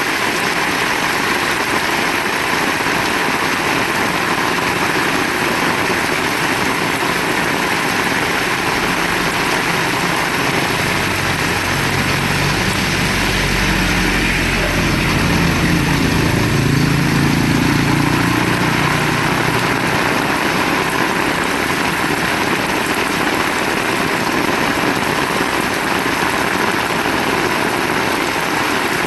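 Steady heavy rain. From about nine seconds in, a low engine drone swells, peaks and fades away by about twenty seconds, as a motorised vehicle passes.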